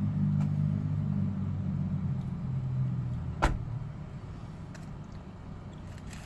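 Low, steady hum of a car engine running. A single sharp click comes about three and a half seconds in, and after it the hum drops noticeably quieter.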